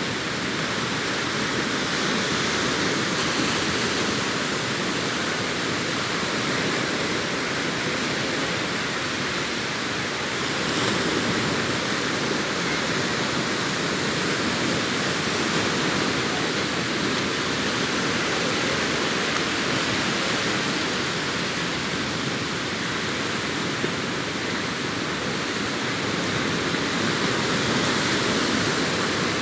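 Sea surf on a beach: waves washing in as a steady, continuous rush, swelling a little louder about eleven seconds in and again near the end.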